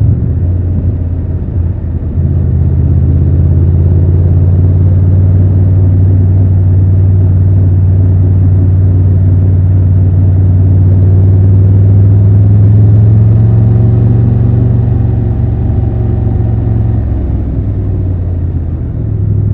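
Triumph Tiger 1200 Rally Pro's inline three-cylinder engine running while riding, a steady low drone that swells slightly about twelve seconds in and eases off near the end.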